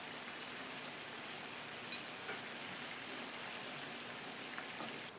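Chicken korma sauce boiling in an uncovered pan, a steady sizzling hiss as its water cooks off to thicken it, with a few faint clicks.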